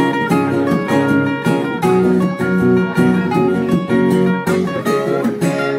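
Acoustic guitar strummed in a steady rhythm, playing chords as an instrumental passage of a song.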